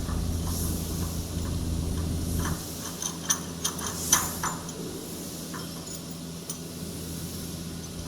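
A steady low mechanical hum that cuts off about two and a half seconds in, followed by a run of light metallic clinks and taps.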